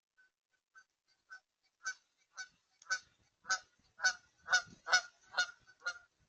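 A large waterbird honking repeatedly, about two short honks a second, growing louder and then easing off near the end.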